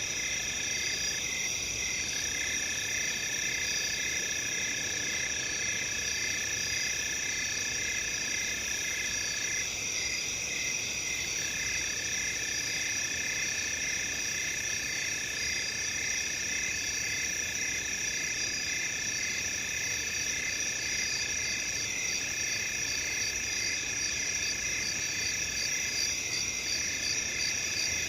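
Night chorus of crickets: several overlapping high, steady trills with regularly pulsed chirps layered over them, unchanging throughout.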